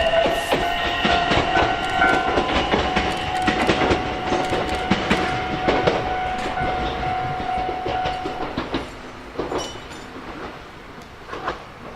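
Ichibata Electric Railway 7000 series two-car electric train running along the rails, wheels clicking over the rail joints with a steady whine over them. The whine stops about two-thirds of the way in, and the train fades as it moves away.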